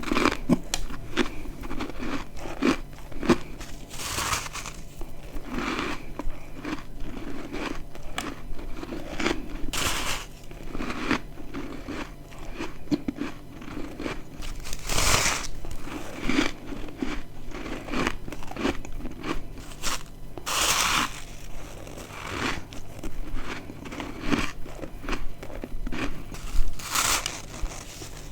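Close-up biting and chewing of dry, crispy freezer-frost chunks: crisp crunches about every five to six seconds, with smaller crackling chews between them.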